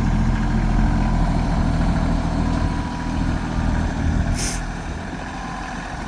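Tractor engine running steadily, growing quieter after about three seconds, with a brief hiss about four and a half seconds in.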